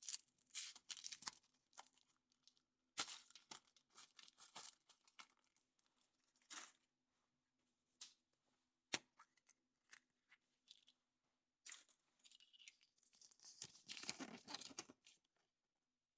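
Foil wrapper of a chocolate surprise egg being torn and crinkled in short, irregular bursts, with a few sharp clicks in between and a longer stretch of crinkling near the end.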